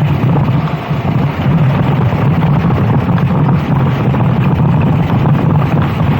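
Racing kart engine running steadily, with its strongest sound in a low hum, and wind buffeting the microphone.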